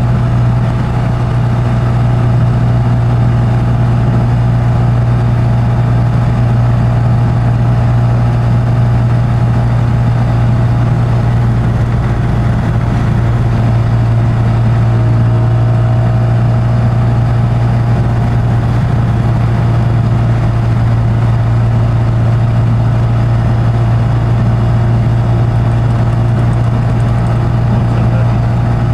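Classic Mini's Metro-sourced 1275 cc A-series four-cylinder engine droning steadily at a constant cruising speed, heard from inside the cabin.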